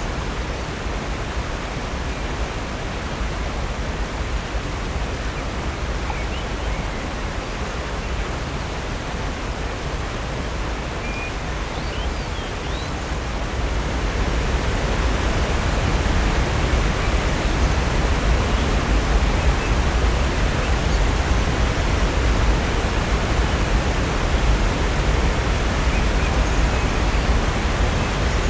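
Steady rush of falling water from Upper North Falls and Silver Creek. It becomes louder and brighter about halfway through. A few faint, brief bird chirps come in the first half.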